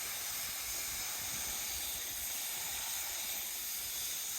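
Steady hiss of compressed air from a paint spray gun, running evenly without a break.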